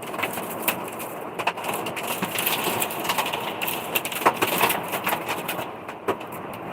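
Heavy rain with hail hitting a truck: a steady rush of rain with many sharp, irregular ticks of hailstones striking the vehicle.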